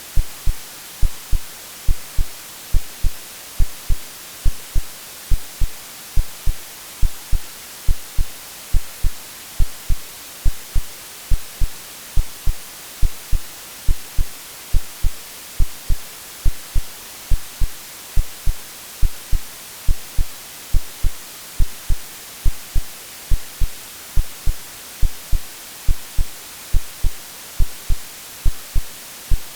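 Steady hiss of white noise with a simulated heartbeat over it: a deep double thump, lub-dub, repeating evenly about once a second. Both are AI-generated.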